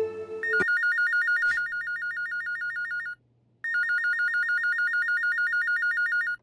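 Corded landline telephone's electronic ringer warbling rapidly between two high pitches, in two rings with a short pause between them. The second ring cuts off suddenly near the end as the phone is picked up. A held musical note fades out at the very start.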